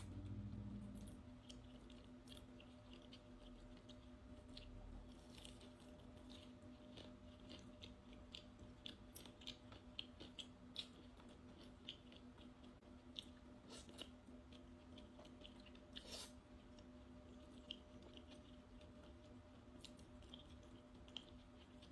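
A person chewing food close to the microphone, faint, with many small irregular mouth clicks, thickest through the middle, over a steady low electrical hum.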